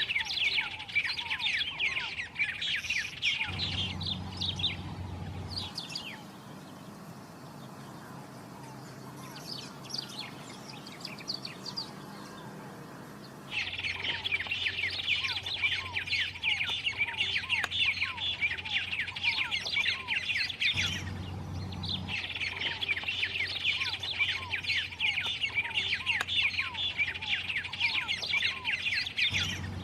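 White-rumped tanagers singing: fast, dense runs of high chirping notes. The song drops to a fainter stretch about six seconds in, returns loud after about thirteen seconds, and pauses briefly around twenty-one seconds.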